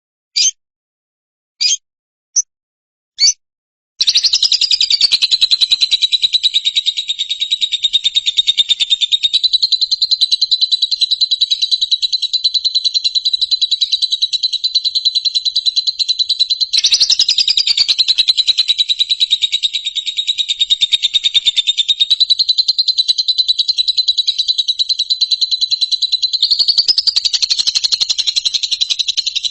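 Recorded songbird: a few short separate chirps, then from about four seconds in a continuous, rapid high-pitched trill that runs on without pause, lifting briefly in pitch twice.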